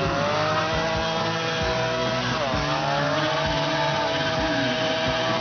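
Motorcycle engine held at high revs during a burnout. The revs dip briefly and climb straight back at the start and again about two and a half seconds in.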